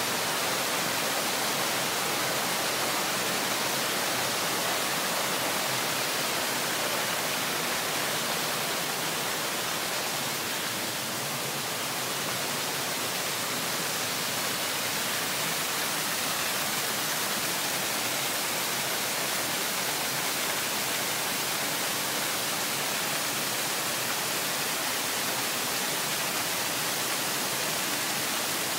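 Small waterfall in a wooded beck, water pouring and splashing in a steady, even rush.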